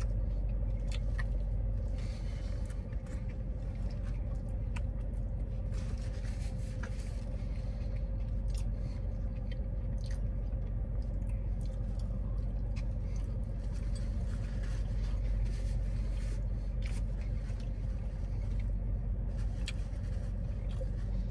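A man chewing a large burger with wet, soft mouth sounds and small irregular smacks, over the steady low hum inside a car, which carries one faint constant tone.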